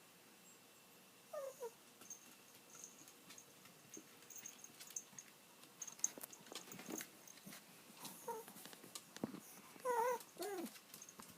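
Old dog whining while waiting for its owner to come home: a short, high, falling whimper about a second in, then a few more wavering, falling whimpers near the end. Faint scattered clicks come in between.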